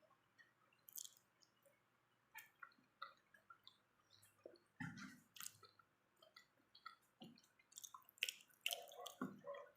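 Faint close-up eating sounds: a person chewing pork, with scattered wet mouth clicks and smacks that grow busier near the end.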